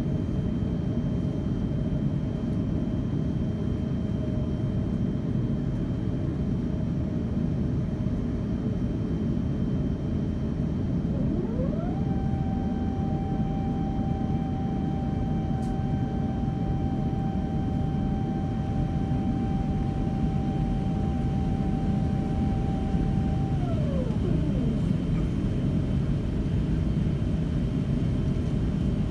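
Steady low rumble inside an Airbus A350-900 airliner cabin on the ground. About a third of the way in, a machine whine rises in pitch, holds one steady note for about twelve seconds, then winds back down and fades.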